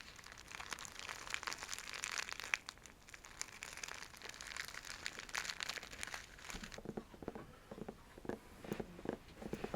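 Fingernails scratching and scrunching a scratchy silk bag close to the microphone, a dense crinkling. About six and a half seconds in it changes to fingernails scratching and tapping on the rough rind of a pineapple, lower and more separate scratches.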